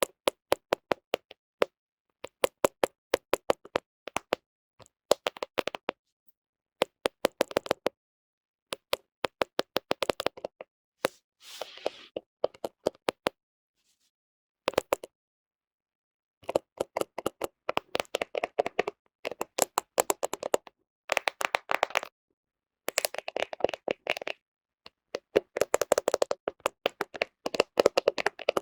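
Fingernails tapping on a smartphone camera close to the microphone, in quick runs of sharp clicks separated by pauses of silence. A short scratching stroke comes near the middle.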